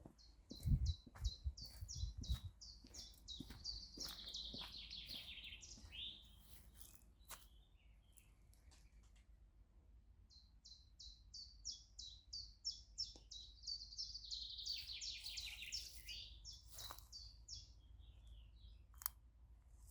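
A songbird singing twice, each song a run of repeated high notes speeding into a fast trill that drops in pitch, with footsteps on a path in the first couple of seconds.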